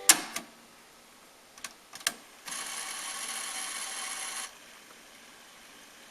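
Pioneer CT-F650 cassette deck's transport keys clicking: a loud click that cuts off the music, another just after, then two more clicks about two seconds in. The mechanism then runs with a steady whir for about two seconds and stops suddenly.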